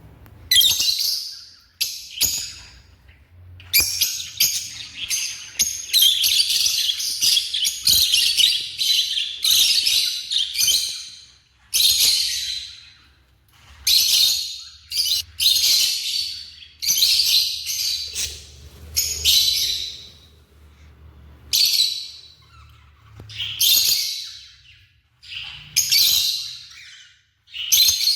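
African lovebirds chirping in rapid, shrill bouts, some under a second and some several seconds long, with short pauses between them.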